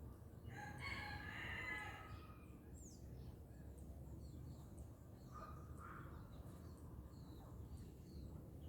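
A rooster crows once, a call of about a second and a half starting about half a second in, faint and distant. Small birds chirp sporadically afterwards over a steady low background rumble.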